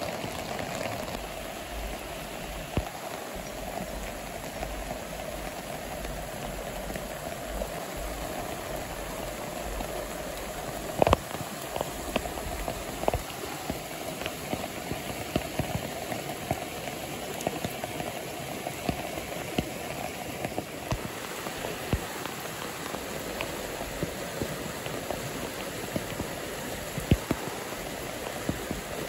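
Steady rain falling on leaves and branches, with single drops tapping close by at irregular intervals, over the rush of a stream.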